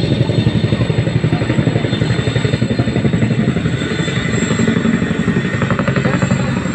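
Helicopter rotor beating rapidly and steadily overhead.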